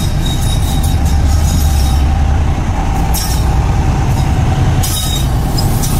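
Diesel locomotive hauling a goods train slowly through a station, its engine running with a steady low rumble over the noise of wheels on the rails.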